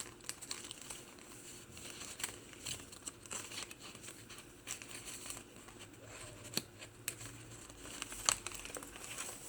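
Paper pages of a handmade journal rustling and crinkling as they are turned and handled, with scattered light ticks and crackles.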